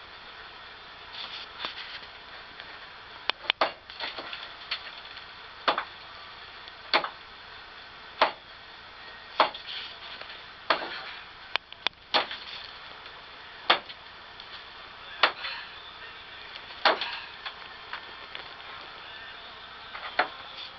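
Sharp single hammer strikes, one every second and a half or so, with a quicker run of blows a few seconds in.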